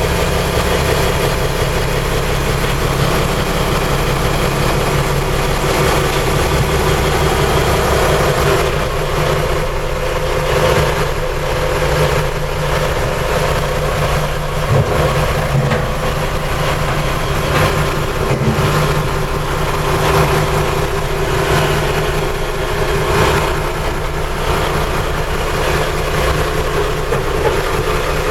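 Inboard diesel engine of a Yanmar DE35B boat idling steadily.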